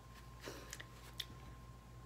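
Faint mouth sounds of a person chewing a lemon: a few soft clicks, over a low steady electrical hum.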